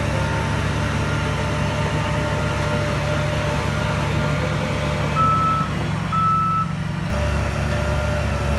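Heavy diesel earthmoving machinery running steadily, with a reversing alarm giving two short beeps about five seconds in. The engine note changes abruptly a couple of seconds before the end.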